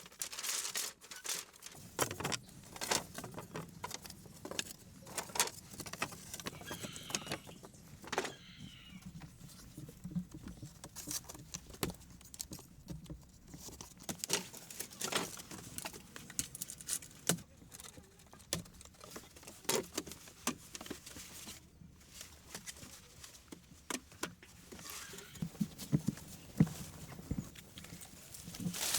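Irregular light clicks, taps and knocks, many of them scattered through the stretch, from hand work with hard materials.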